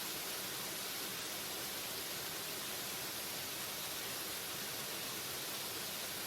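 Waterfall rushing in an even, unbroken hiss, brightest in the highs.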